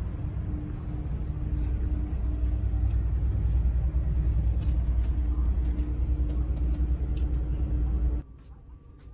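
Car ferry under way: a steady, loud low rumble from the ship's engines and motion, with a faint constant hum over it. It cuts off abruptly near the end.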